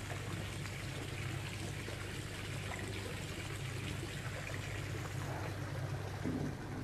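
Running water trickling steadily, like the flow of a garden pond.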